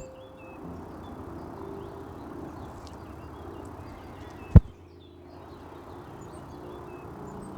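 Black-capped chickadees giving short, high chirps again and again, with one sharp thump about four and a half seconds in.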